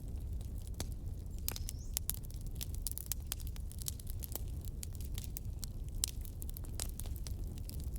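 Fireplace fire crackling: irregular sharp snaps and pops, a few each second, over a low steady rumble.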